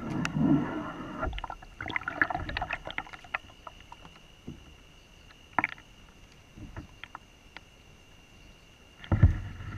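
Sharp clicks, knocks and water sounds from moving about and handling gear in a kayak, with scattered single knocks and a couple of heavy low thumps near the end.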